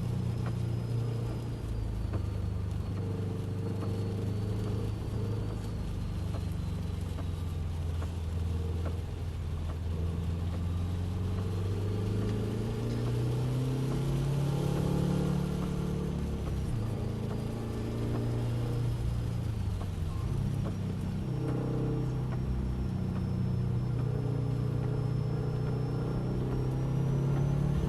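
Car engine running on track, its revs climbing steadily and then dropping sharply twice, around the middle and again a few seconds later, as with gear changes or braking into corners, over a steady hiss of road and spray noise.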